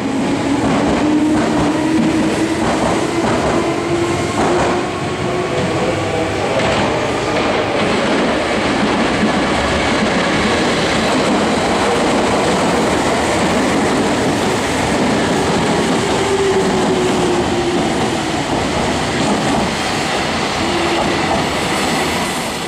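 Meitetsu red electric commuter trains running through a station. The wheels rumble steadily on the rails, with clacking over rail joints, a low motor hum that rises and falls in pitch, and some wheel squeal.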